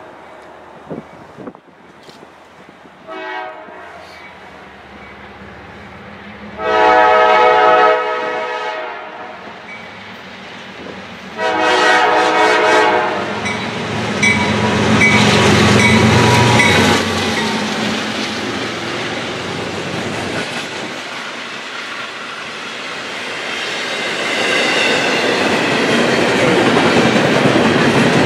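Freight locomotive's air horn: a short blast about three seconds in, then two long blasts about seven and eleven seconds in. The train then runs past close by, a steady rumble with wheels clattering over the rail joints, growing louder again near the end.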